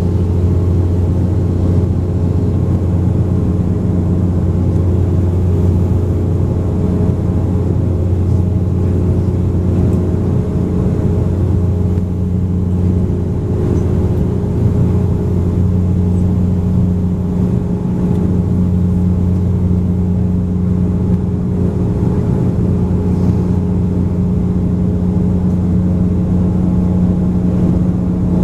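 Bombardier Q400 turboprop engines and propellers heard inside the passenger cabin during the climb: a loud, steady low drone with a strong hum and its overtones over constant rushing noise.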